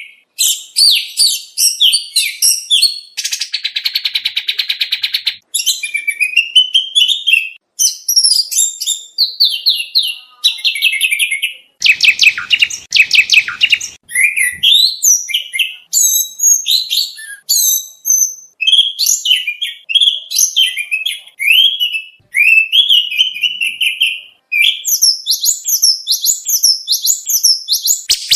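Oriental magpie-robin singing a long, varied song: quick whistled phrases, rapid trills and buzzy rattles following one another with only short breaks.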